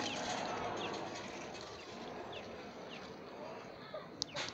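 Scattered short, high chirps from birds over steady outdoor background noise, with a sharp click near the end.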